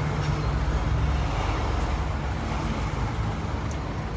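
Road traffic noise: a steady low rumble of vehicles with no horn or voice over it.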